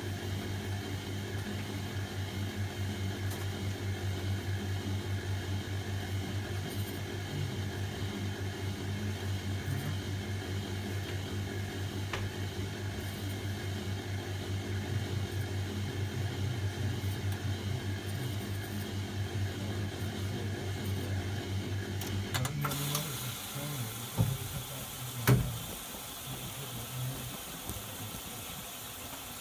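Hoover Keymatic washing machine running with a steady, pulsing hum during its cool-down and drain cycle. The hum stops about two-thirds of the way in and gives way to a hiss of water, with a couple of knocks.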